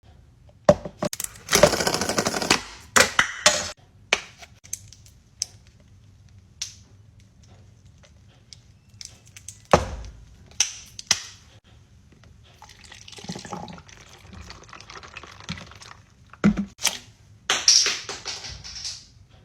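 Coffee being made by hand: a string of sharp clicks, knocks and clatters of cups and equipment, with a loud noisy stretch of about a second near the start, a softer one midway and a hissing stretch near the end, typical of pouring or steaming.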